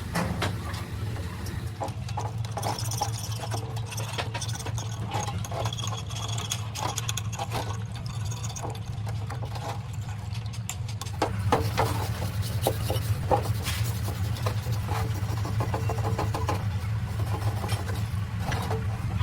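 An engine running steadily, with metallic clicks, knocks and rattles over it.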